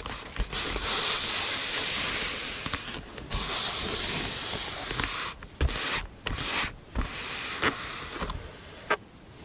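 Paper being rubbed and slid by hand in two long hissing strokes, followed by several short taps and crinkles of paper.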